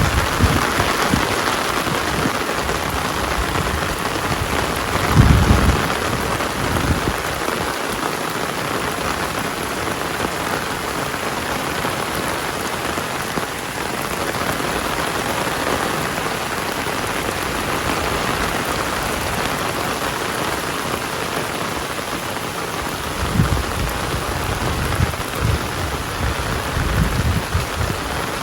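Heavy rain falling steadily as an even hiss, with brief low rumbles about five seconds in and again several times over the last few seconds.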